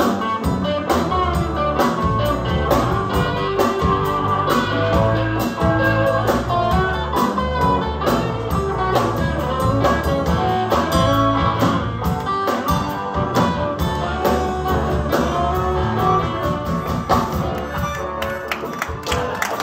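Live band playing an instrumental blues passage, with guitar prominent over a steady beat.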